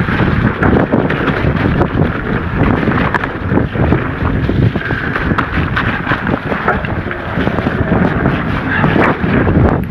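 Wind rumbling on the microphone while a mountain bike is ridden over a rough trail, with frequent knocks and rattles.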